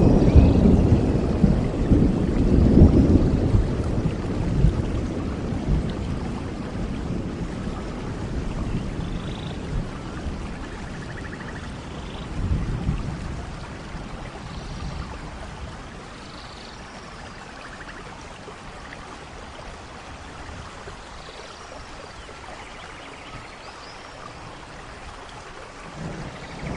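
Thunder rumbling and fading away over the first few seconds, with a second, smaller rumble about halfway through, over steady tropical rain. Faint short bird calls come now and then.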